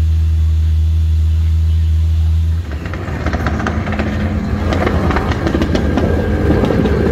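A drift car's engine idling with a deep, steady drone. About two and a half seconds in it cuts off abruptly, giving way to several drift cars on track: engines revving up and down, with rapid exhaust crackle and pops.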